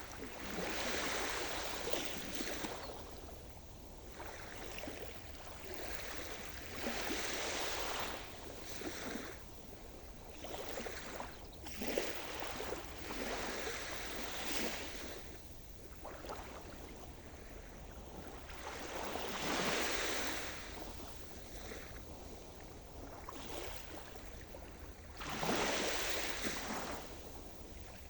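Sea surf: waves washing in and breaking on the shore, a hissing wash swelling and fading every few seconds.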